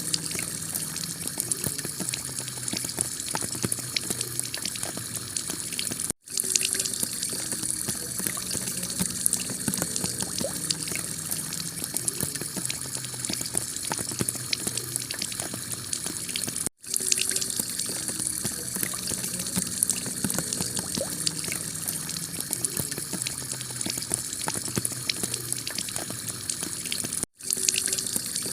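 Heavy rain pelting a clay-tiled roof: a dense, steady patter of drops. The sound cuts out for an instant three times, about ten seconds apart.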